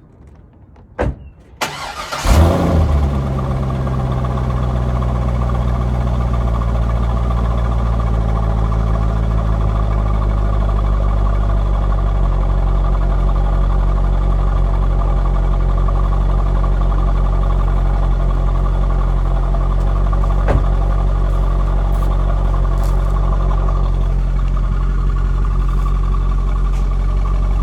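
2004 Corvette C5's 5.7-litre V8 cold-started after about six months in storage: a brief crank, then it catches with a loud rev flare about two seconds in and settles into a steady, rumbling fast idle. The idle steps slightly lower about twelve seconds in.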